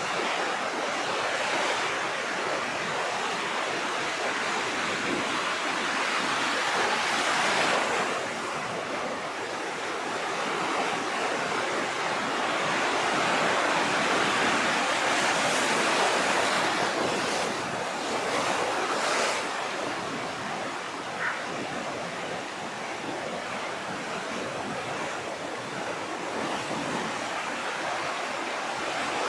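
Rough, storm-swelled sea: surf breaking and washing in continuously, rising in surges, with a few sharper crashes just past the halfway point.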